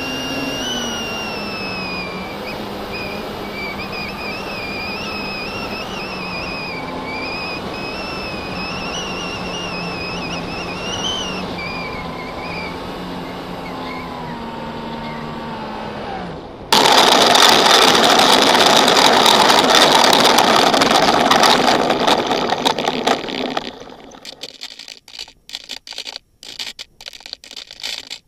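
FPV drone motors and propellers whining, the pitch wavering up and down with the throttle. About 17 seconds in, a sudden loud rushing noise lasts some seven seconds, then breaks up into scattered crackles.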